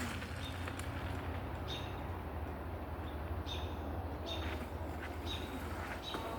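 Short, high bird chirps several times, about once a second, over a steady low hum.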